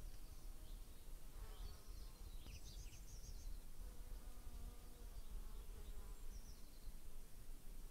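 Faint outdoor ambience: a steady low rumble with a small bird chirping a few short bursts of rapid high notes.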